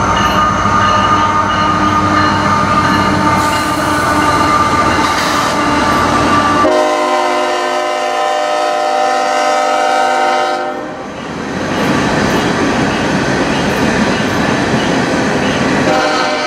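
CSX freight train rolling past with steady wheel and rail noise. About seven seconds in, a locomotive air horn sounds one long chord for about four seconds, and the horn starts again near the end.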